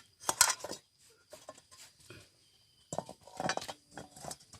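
Cooking utensils clinking and knocking against a pan, in two short clusters of quick knocks, one near the start and one about three seconds in.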